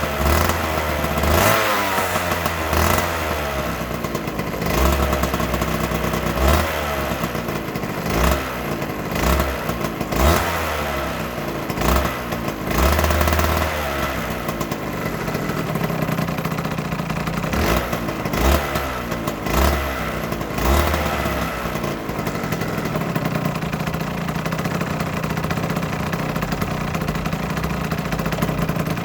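Aprilia RS125's single-cylinder two-stroke engine blipped repeatedly with short throttle revs, then settling to a steady idle a little past the two-thirds point.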